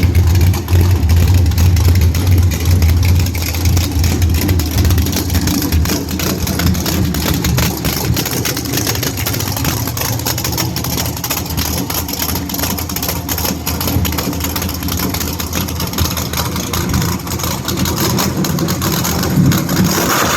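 Drag car engine running steadily and loud, with a strong low rumble in the first few seconds.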